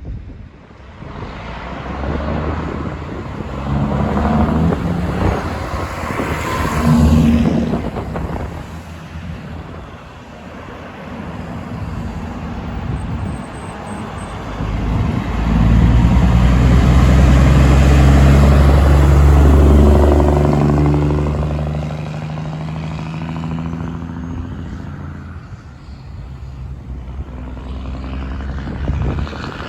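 Heavy trucks driving past one after another. The loudest, from about fifteen to twenty-one seconds in, is a deep diesel engine note that swells and then falls in pitch as it goes by.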